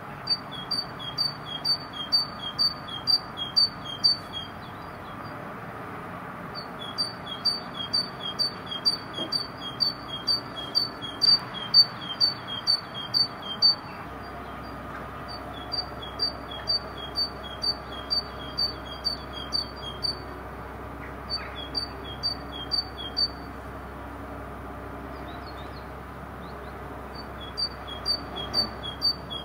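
A songbird singing a fast, repeated two-note phrase, a high note followed by a slightly lower one, about three notes a second. It sings in several runs of a few seconds with short pauses between them, over a faint steady background hiss.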